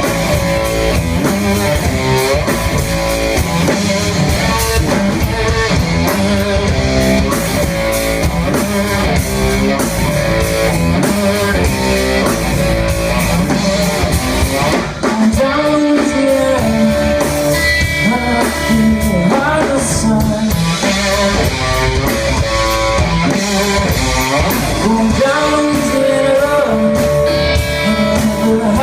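Live band music: amplified guitar with drum kit playing a rock-blues groove.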